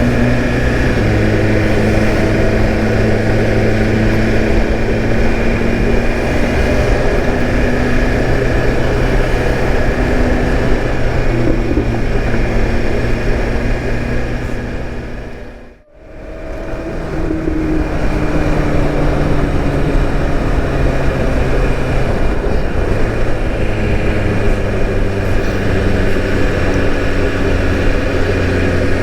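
BMW S1000RR M Carbon's inline-four engine running at steady revs while the motorcycle is ridden, with wind and road noise; the engine note shifts in pitch a few times. About two-thirds of the way through, the sound briefly fades almost to nothing and comes straight back.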